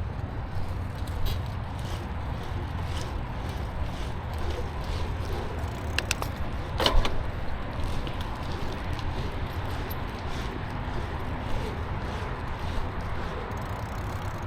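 Bicycle being ridden up a short hill: steady wind rumble on the microphone and tyre noise, with light rattling clicks from the bike and one sharp click about seven seconds in.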